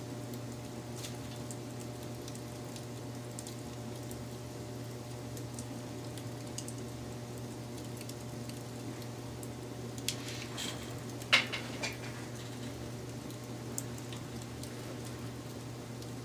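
Wood fire crackling, with scattered small pops and a cluster of louder snaps about ten to twelve seconds in, the sharpest near eleven seconds, over a steady low hum.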